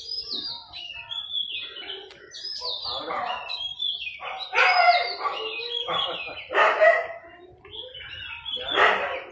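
Small birds chirping busily, a steady run of quick high notes, with a few louder bursts of sound over them.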